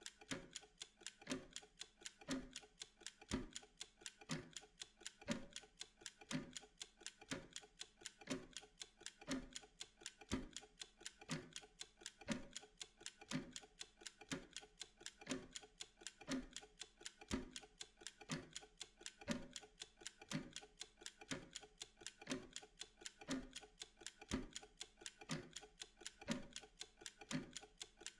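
Wind-up mechanical kitchen timer ticking steadily while it counts down. Several quick ticks a second, with a heavier tick about once a second.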